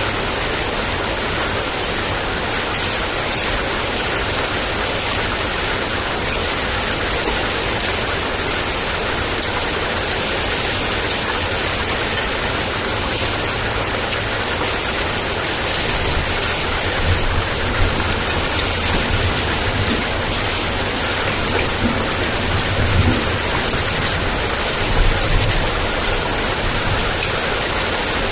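Heavy downpour of rain, a steady dense hiss, with low thunder rumbling faintly beneath it in the second half.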